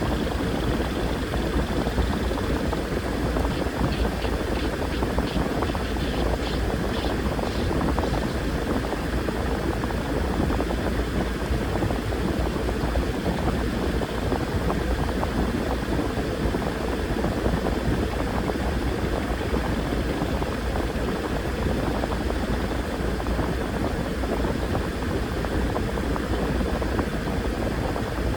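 Washing machine running: a steady low rumble and even whooshing noise from the turning drum, with a brief run of faint light ticks about four seconds in.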